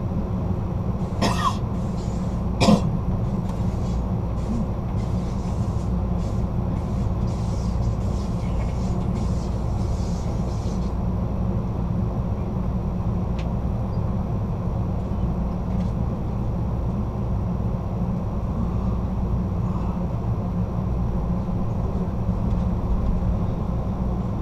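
Steady low rumble of the Amtrak California Zephyr's rear passenger car rolling down the track, heard from inside the car. Near the start there are two short sharp noises about a second and a half apart.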